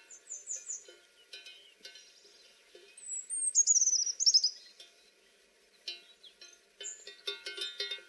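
A small songbird singing: short high chirps near the start, then, about three seconds in, a loud, quick series of high notes stepping down in pitch. Faint ringing, bell-like tones sound underneath.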